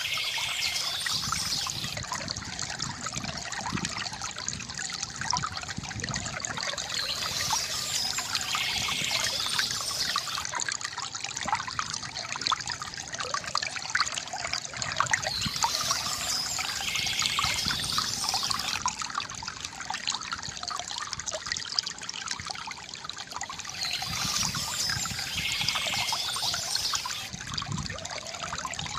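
Water trickling and gurgling from a bamboo fountain, steady throughout, with a brighter hiss that returns about every eight seconds.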